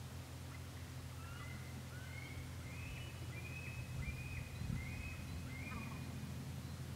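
A bird giving a run of about eight short, clear whistled notes, starting about a second in and stopping near the end, over a steady low rumble.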